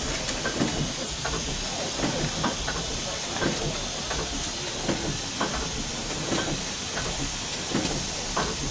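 Steam hissing steadily from a Fowler steam roller standing in steam.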